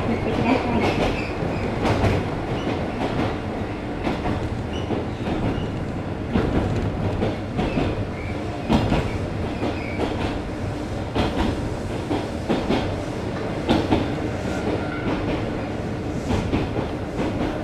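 Mizuma Railway 1000 series electric train running between stations, heard from inside the passenger car: a steady rumble from the running gear with irregular sharp clicks as the wheels pass over rail joints.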